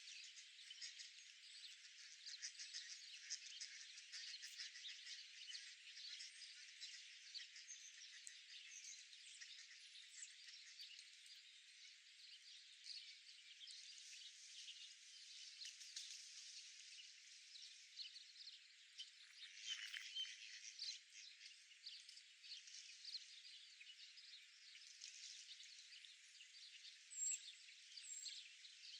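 Faint, dense chorus of rapid chirping and clicking from small animals, with a louder patch about two-thirds of the way through and two short high peeps near the end.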